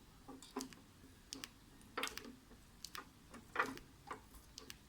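Faint, irregular plastic clicks and taps, about ten of them unevenly spaced, from working a small hand-squeezed aerator in a brine shrimp tank.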